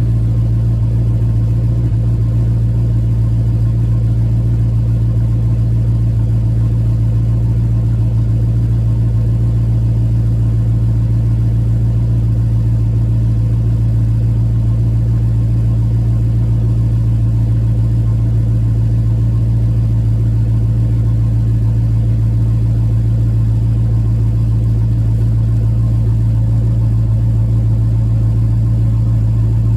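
2004 Pontiac GTO's 5.7-litre LS1 V8 idling steadily through JBA shorty headers and the stock exhaust, its header exhaust leak repaired.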